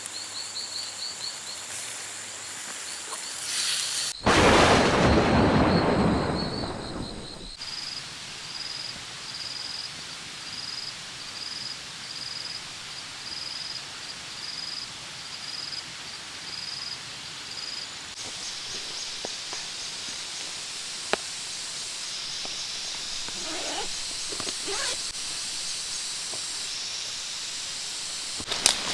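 Steady heavy rain in the jungle, with a thunderclap about four seconds in: a sharp crack and then a loud rumble that fades over about three seconds. A high, evenly pulsing chirp keeps going behind the rain.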